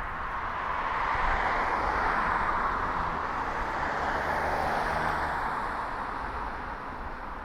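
A motor vehicle drives past on the street, its tyre noise swelling over about a second, holding, and then fading away, with a low engine hum heard as it goes by.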